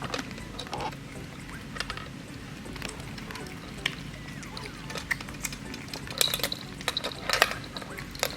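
Cats eating wet food: irregular wet smacking, chewing and clicking sounds, with a brief high tone about six seconds in.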